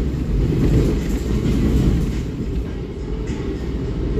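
Ride noise inside a moving Jayakarta Premium economy premium passenger coach: a steady low rumble of the wheels running on the rails, with a few faint clicks.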